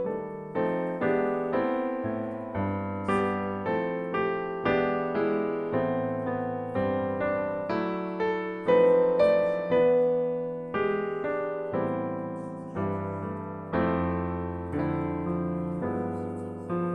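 Background piano music: a slow, gentle melody of single struck notes, each fading away, about two a second.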